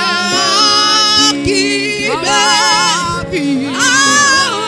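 Yoruba gospel worship singing: a voice sings long held notes with wide vibrato, phrase by phrase, over steady sustained accompaniment.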